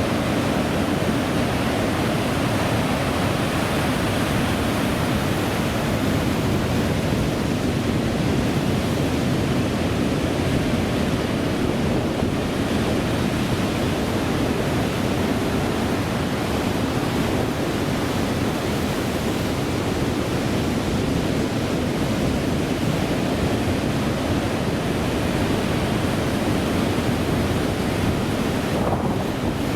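Ocean surf and wind making a steady, unbroken rush, with wind buffeting the microphone.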